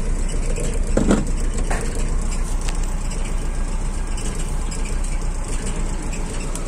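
Hyundai car's engine idling, a steady low hum heard from inside the cabin.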